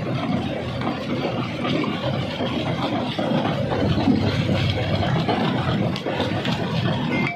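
Rock-crushing machinery running steadily, a dense, loud mechanical din with scattered faint knocks.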